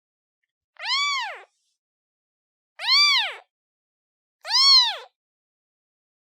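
Newborn kitten meowing three times, each call rising and then falling in pitch, with short silent gaps between: a kitten calling for its mother.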